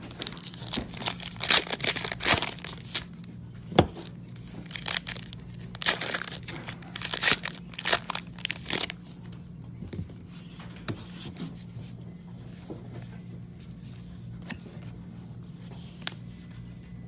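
Trading-card pack wrappers being torn open and crinkled, a quick string of rips and rustles for about the first nine seconds, then fainter rustling as the cards are handled, over a low steady hum.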